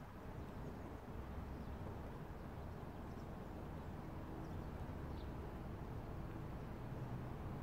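A few faint, short bird chirps, scattered and far apart, over a steady low background rumble.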